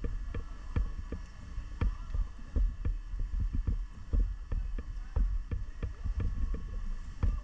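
Steady low rumble with irregular knocks and bumps, about three a second, picked up by a handheld action camera.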